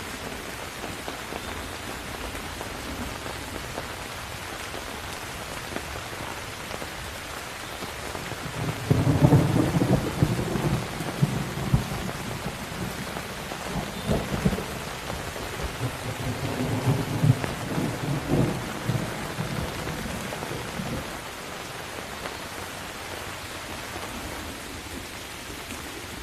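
Steady rain with a long roll of thunder. The thunder breaks in about a third of the way in, rumbling low and loud with several peaks for around twelve seconds, then fades back under the rain.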